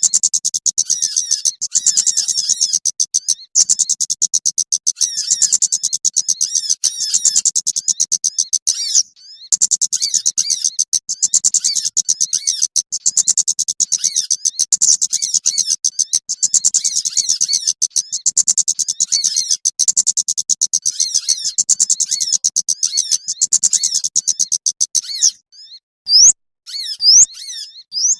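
Rapid, dense high-pitched twittering of small songbirds, played as a lure call for trapping small birds. It breaks off briefly about a third of the way in, and near the end thins to a few separate rising whistles.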